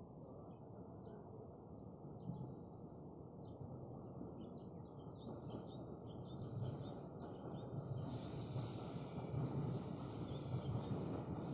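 Low rumble of a Taroko Express tilting train approaching along the track, growing louder, with birds chirping. A high hiss comes in suddenly about eight seconds in.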